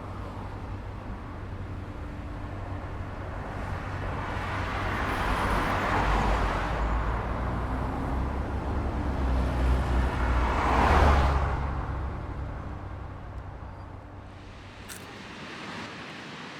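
Road traffic: vehicles passing by over a steady low rumble, the sound swelling and fading twice, with the louder pass about eleven seconds in.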